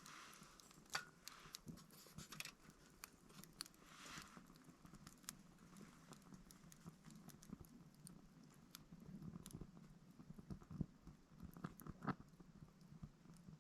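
Small wood fire burning in a VARGO titanium hexagon wood stove, crackling and popping irregularly, with a few louder pops about a second in and near the end.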